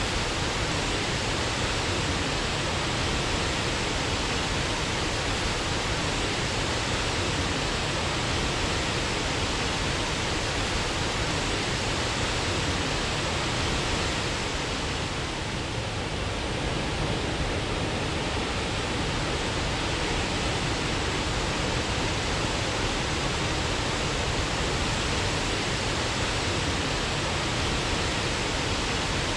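Waterfall: a steady, dense rush of falling water that dips slightly for a couple of seconds midway.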